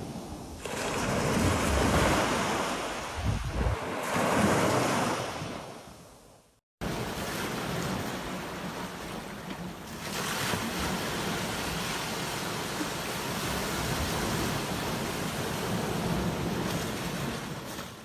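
Ocean surf breaking and washing up a beach, swelling twice and fading away. After a brief dropout about a third of the way in, a steadier rush of surf follows.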